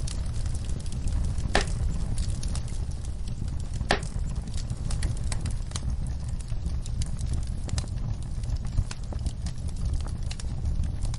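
Wood fire crackling in a fireplace: a steady low rumble of flames under frequent sharp snaps and pops, with two louder pops about one and a half and four seconds in.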